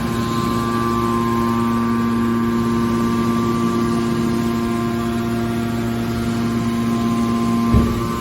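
The hydraulic power unit of a scrap-metal baler, an electric motor driving a hydraulic pump, runs with a steady loud hum of several constant tones. A single brief low thud comes near the end.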